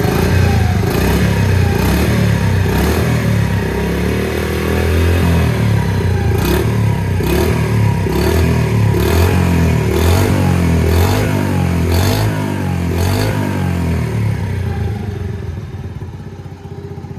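Honda Super Cub 50's small single-cylinder four-stroke engine running through an aftermarket Out-standing full exhaust, revved up and down in repeated throttle blips, then dropping back to a steady idle near the end.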